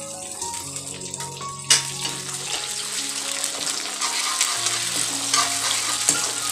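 Onion and tomato sizzling in oil in a metal kadai as they are stir-fried, a metal spatula scraping through the food, with one sharp clank of the spatula against the pan about two seconds in. Soft background music plays underneath.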